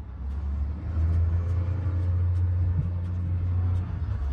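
Boom boat engine running steadily with a deep rumble, growing louder about a second in.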